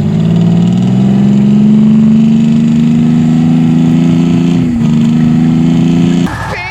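Concrete truck's diesel engine held at full throttle in high range, its pitch climbing slowly. About six seconds in it backs off suddenly and a falling whine follows.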